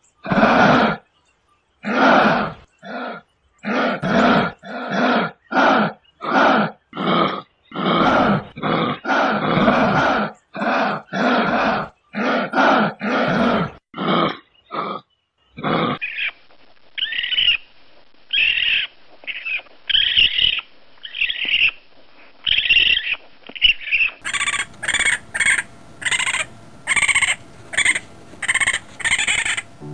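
A rapid run of loud, rough animal calls, one to two a second. About halfway through they give way to a different, higher series of calls, and near the end to quick high chirping calls.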